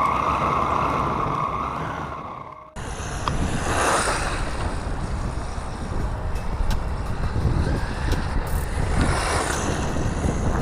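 Brushless electric motor of a 1/10-scale Redcat Tornado EPX Pro RC car on 3S, a steady high whine that fades and cuts off sharply about two and a half seconds in. After that the car rushes by twice, a swell of motor and tyre noise each time.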